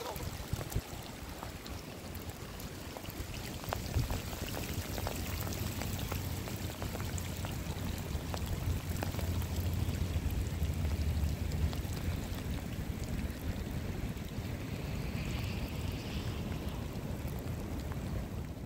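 Steady rain falling: a continuous hiss with scattered sharper taps of drops.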